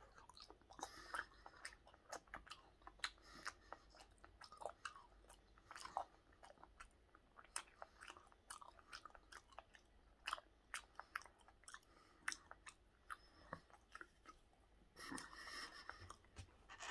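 Faint chewing of raw tuna belly sashimi: irregular wet mouth clicks and smacks.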